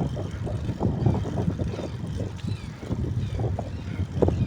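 A vehicle's engine running while riding along, a steady low rumble with uneven flutter.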